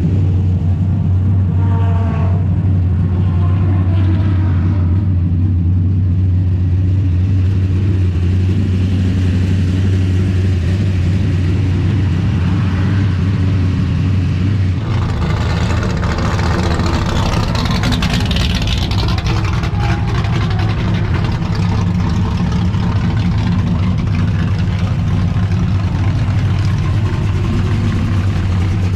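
Racing car engine running at a steady, low pitch, heard from on board, with rushing noise that swells about halfway through.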